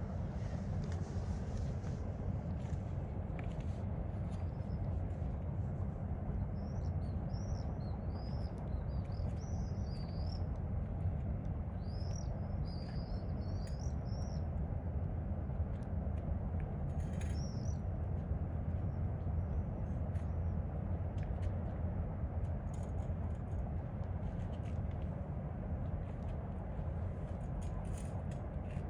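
A small songbird chirps in quick runs of short high notes for several seconds, over a steady low rumble, with a few faint crackles scattered through.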